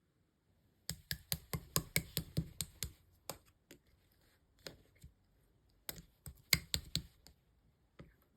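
Slime being squeezed and poked by hand, giving crisp clicks and pops: a quick run of about a dozen about a second in, a few scattered ones, then another quick cluster near the end.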